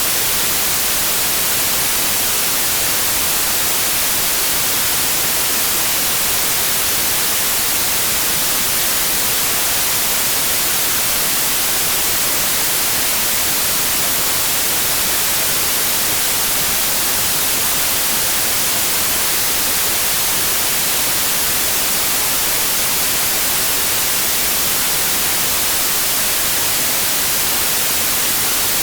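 Steady, unchanging white noise: a constant hiss, strongest in the high end, with no hum, tones or rhythm in it.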